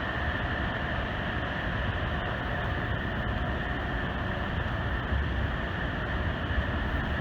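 Steady roar of the Great Falls of Paterson, a large waterfall on the Passaic River, heard close to the falls.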